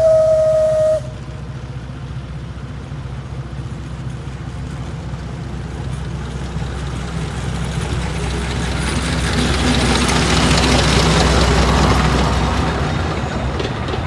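Whistle of Shay No. 25, a geared steam locomotive on the Alishan Forest Railway, ending about a second in. Then the locomotive works by with a low rumble and steam hiss that build to their loudest near the end and then ease off.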